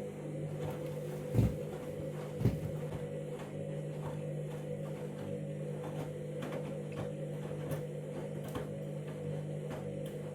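Candy Grand'O Vita 7 kg washing machine running: a steady hum with two dull thumps in the first few seconds and light ticks roughly every half second to second after that.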